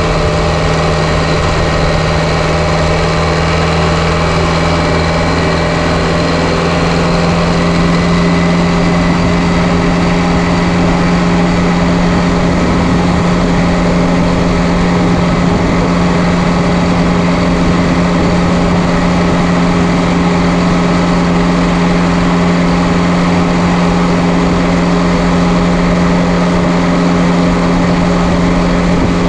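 Straight-piped John Deere 2030 tractor engine, its muffler gutted, running steadily under way; the engine note rises slightly about a quarter of the way in and then holds.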